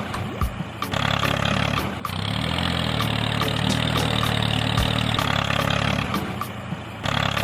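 An engine or motor running steadily, with its level dipping briefly a couple of times.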